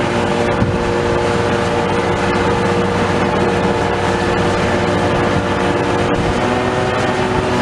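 Heavy diesel demolition machinery running steadily under load, its engine drone holding several steady tones, with scattered faint knocks of metal and rubble.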